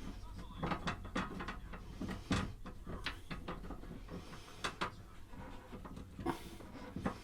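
Irregular mechanical clicks and knocks, a dozen or so over several seconds, over a low steady hum: tools and small metal parts being handled at the bench.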